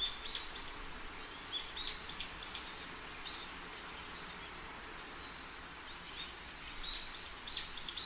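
Small birds chirping in quick, short high calls, in clusters near the start, around two seconds in, and again near the end, over a steady background hiss.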